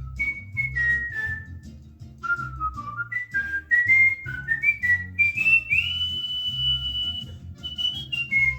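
Cockatiel whistling a learned tune: a string of short, clear notes stepping up and down, climbing in a quick run to one long high note held for about a second and a half, then more short notes.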